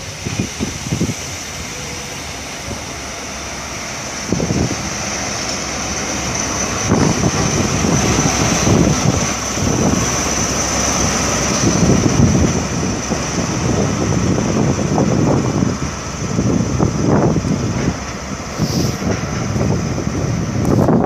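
Train running through the station with a steady high whine, while irregular gusts of wind buffet the microphone.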